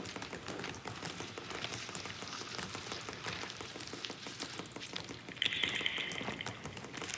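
A dense, steady patter of many small clicks and taps, layered like exam-room fidgeting noise. About five and a half seconds in, a high shrill tone sounds for about a second over it.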